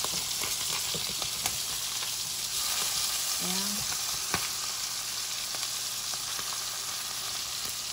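Salmon fillets sizzling steadily in garlic butter in a frying pan, with a silicone spatula tapping and scraping against the pan and fish in a few sharp clicks.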